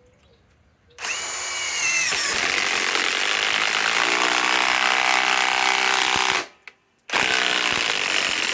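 Ryobi PSBIW25 compact cordless impact wrench, its battery down to one bar, running about a second in. It spins up, then hammers with a fast, even rattle. It stops, and after a brief pause runs again in a second burst.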